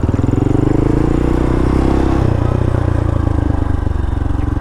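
Honda Grom's small single-cylinder four-stroke engine running under way, its pitch climbing for about two seconds and then dropping and settling lower.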